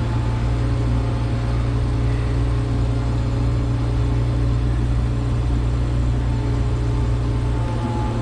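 Case 2144 combine's diesel engine running steadily with a low, even hum.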